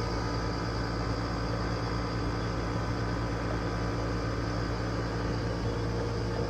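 Steady mechanical hum of air-conditioning equipment running, a constant low drone with a fan's even rush and no change.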